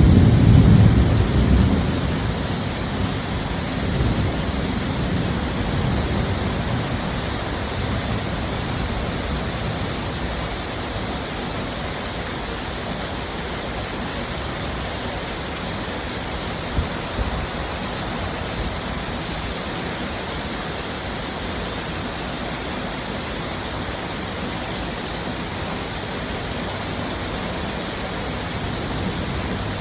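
Heavy rain falling steadily in an even hiss. A rumble of thunder dies away over the first few seconds.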